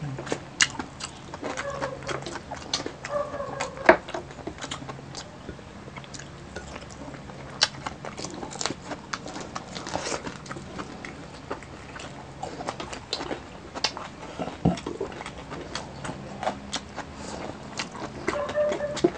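Close-up mukbang eating: crispy deep-fried pork knuckle skin crunching and crackling under the teeth, with wet chewing. Many short, sharp crunches come at an uneven pace throughout.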